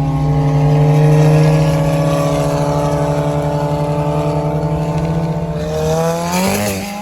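Car engine drone holding a steady pitch while cruising, then revving up with a rising pitch near the end.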